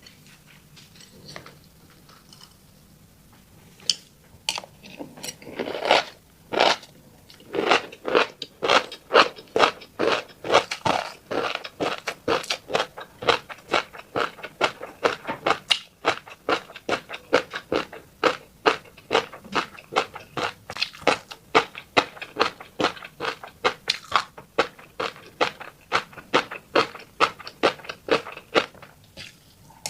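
Close-up eating sounds of a mouthful of fish roe: wet chewing with rapid sharp clicks and pops, about three to four a second, starting a few seconds in after a quiet stretch.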